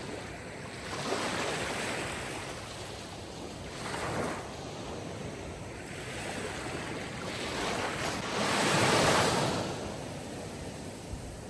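Sea waves surging and washing ashore in slow swells. The biggest and loudest wave comes about eight to nine seconds in.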